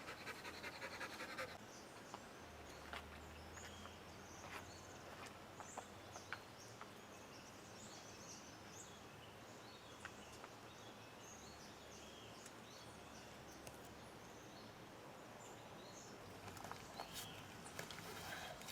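Faint outdoor ambience with scattered short, high bird chirps throughout and a few light clicks. A dog pants quickly during the first second or so.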